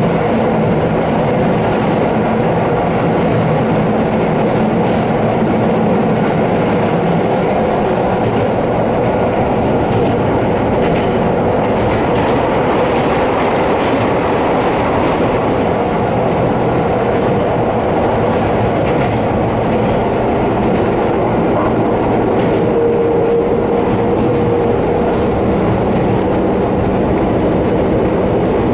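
Inside a Kobe Electric Railway electric train climbing a steep grade: steady rumble of the wheels on the rails, with the traction motors groaning under load as a steady hum.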